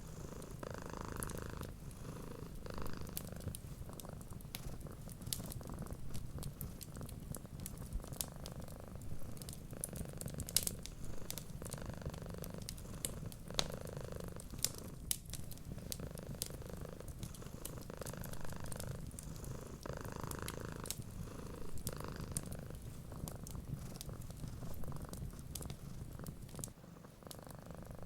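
Domestic cat purring steadily in a low, continuous rumble, with sharp, scattered crackles from a wood fire.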